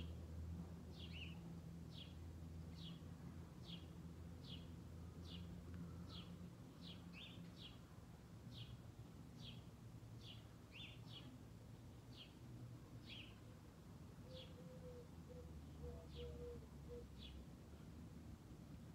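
A small bird chirping repeatedly and faintly, short high chirps a little over once a second, each dropping slightly in pitch, over a faint low background rumble.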